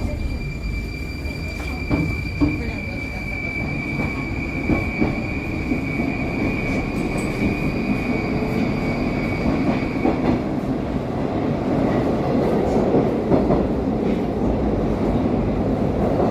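Moscow metro train running in the tunnel, heard from inside the carriage as it picks up speed after leaving a station. A steady high whine stops about ten seconds in, while the rolling wheel-on-rail noise grows gradually louder.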